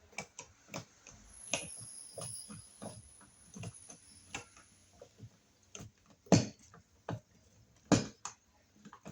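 Scattered clicks and knocks of small hard electrical parts being handled at a wall outlet box, with two louder knocks about six and eight seconds in.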